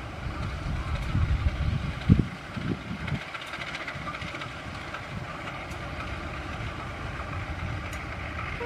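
Low, steady rumble of a train, with several louder thumps between about one and three seconds in.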